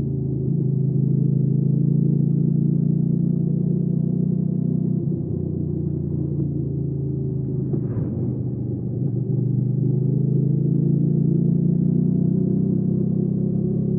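Hyosung GV300S Aquila's V-twin engine running steadily under way, its note stepping slightly up or down a few times. A brief rushing noise near eight seconds, followed by a short dip in level before the engine pulls again about nine seconds in.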